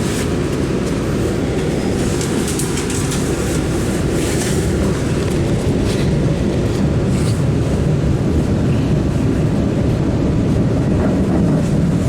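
Inside an MBTA Blue Line Siemens 700 Series subway car running between stations: a steady rumble of wheels on rail, with a few short clicks from the track.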